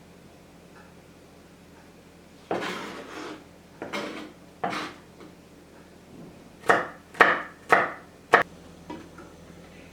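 Kitchen handling sounds: a rustling scrape and two shorter scrapes, then four sharp knocks about half a second apart on a hard surface.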